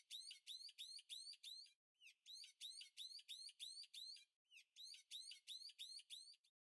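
Faint bird chirping: a rapid run of identical high chirps, about four to five a second, coming in three bursts of about two seconds each.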